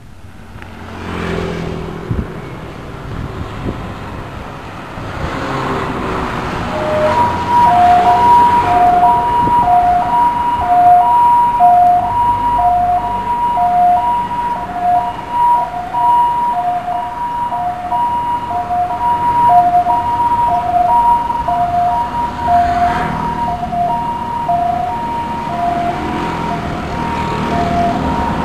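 An emergency vehicle's two-tone siren alternating steadily between a high and a low note, starting about a quarter of the way in, over the rumble of the vehicle's engine.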